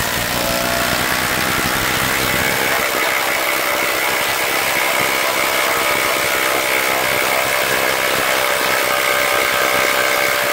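Ryobi cordless impact driver running on a high-capacity battery, hammering steadily without a break as it drives a fastener under load.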